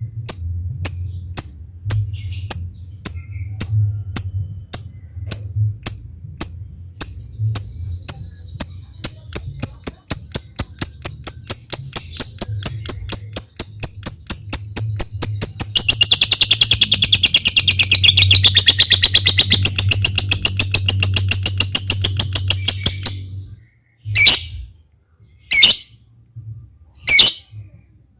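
Lovebird ticking chirps (ngetik), repeated ever faster until they run together into a long continuous rattling trill (ngekek panjang) of about seven seconds that cuts off suddenly, followed by four single sharp calls. This long ngekek is the song of a lovebird in full voice (gacor). A low steady hum runs underneath until the trill stops.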